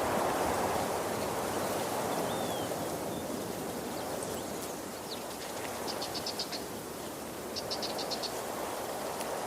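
Waterfall: a steady rush of falling water. Over it a small animal gives a short falling chirp a little over two seconds in, then two short, rapid, high-pitched trills about six and eight seconds in.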